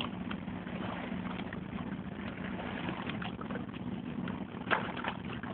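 Steady low drone of a boat engine, with scattered light clicks and crackles over it.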